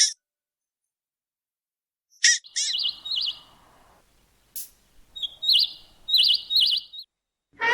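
A bird chirping: short, sharp, high calls and quick warbled trills in a few bursts, starting about two seconds in with a cluster of three near the end.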